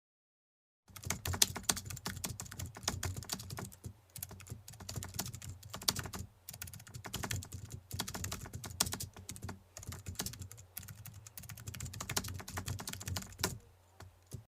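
Fast typing on a computer keyboard: a dense run of keystroke clicks that starts about a second in, pauses briefly a few times, and stops shortly before the end.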